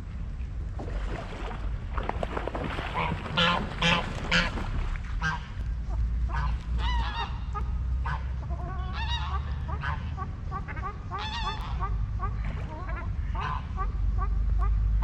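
Waterfowl calling at a lake: geese honking repeatedly, with other duck-like calls, the loudest run of honks about three to four seconds in. A steady low rumble runs underneath.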